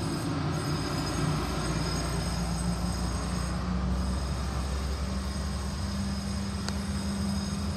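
Ice cream truck's engine running steadily, a low drone that shifts up slightly in pitch about five seconds in.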